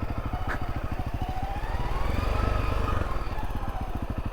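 Motorcycle engine running steadily, a fast, even chug of firing pulses.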